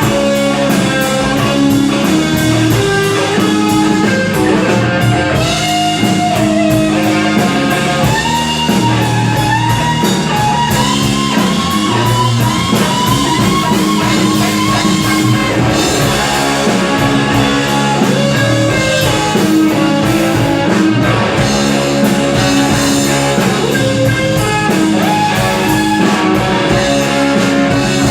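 Rock band playing an instrumental break, with no singing: a lead guitar line with bending notes over chordal guitar and drum kit.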